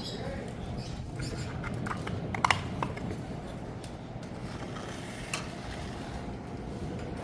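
Light clicks and knocks from wire bird-cage parts being handled and fitted together, with a few sharper clicks about two and a half seconds in, over a steady low hum.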